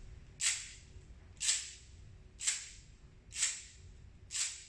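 Sasara, a Japanese percussion instrument of thin wooden slats strung on a cord between two handles, clacked together in a crisp rattle five times at an even pace of about one stroke a second.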